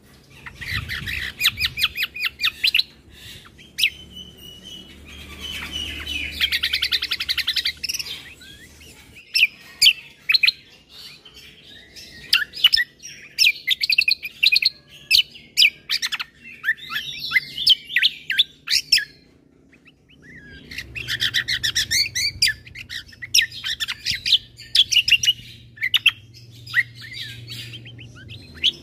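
Kecial kombo (cucak kombo) songbird singing a long, varied song of rapid chirps, trills and mimicked phrases, with a brief pause about two-thirds of the way through.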